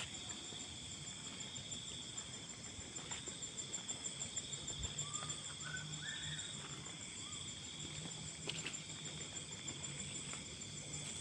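Steady high chirring of night insects, with a faint low hum that comes in about four seconds in and a few soft ticks.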